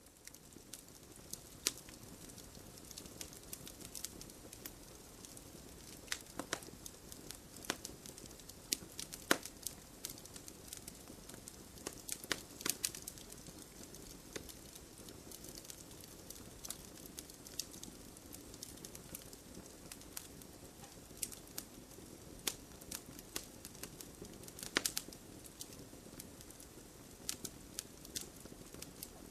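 Wood fire burning in a fireplace, a steady low hiss with irregular crackles and sharp pops, a few louder snaps scattered through.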